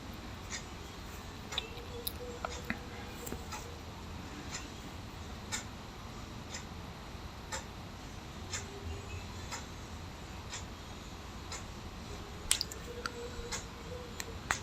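Clock ticking about once a second over quiet room tone, with a couple of sharper clicks near the end.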